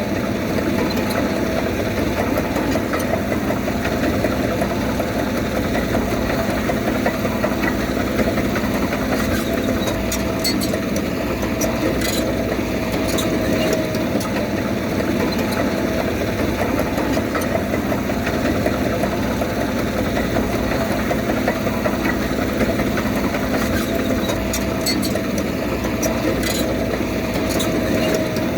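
Diesel engine of heavy earthmoving machinery running steadily, with a thin whine that sags slightly in pitch now and then and a few sharp clanks.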